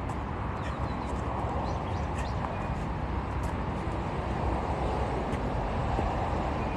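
Steady low rumble of background noise, with faint brief high chirps scattered through it.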